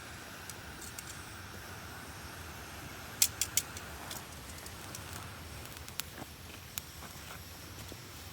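Small campfire of kindling crackling, with a few sharp pops (three in quick succession about three seconds in, single ones later), over a steady low rumble. The fire is slow to catch.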